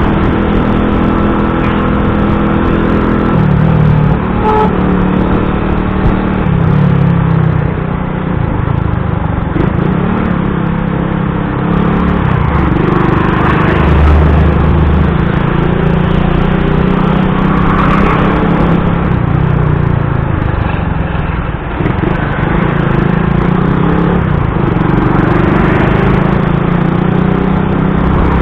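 Vehicle engines running in slow, heavy traffic, loud throughout, their pitch stepping up and down every few seconds as they pull away and slow.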